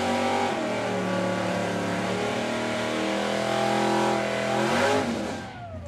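1964 AMC Rambler drag car's engine revving hard during a burnout, held at high revs for about five seconds, then the revs fall away near the end.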